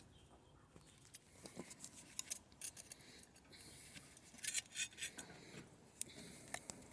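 Hand snips cutting a sheet-metal patch panel: faint, short, crisp snips coming in a few bursts, about a second and a half in and again from about four and a half seconds.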